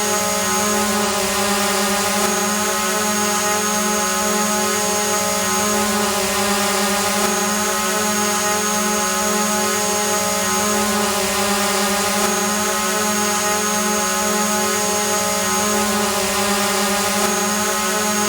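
Multirotor drone hovering: a steady, even buzz of spinning propellers and motors with a constant pitch over a hiss, repeating as a loop about every five seconds.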